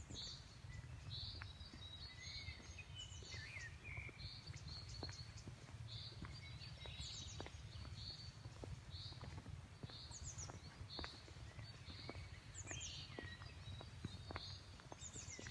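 Forest birds singing: a short chirping note repeated over and over, about one to two a second, with quick falling whistles now and then. Faint sharp clicks and a low steady rumble underneath.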